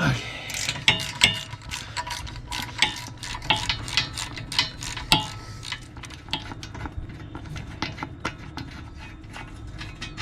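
Hand ratchet clicking in quick irregular runs, with metal clinks of tools on steel, as the bolts of a car's wheel hub are worked loose.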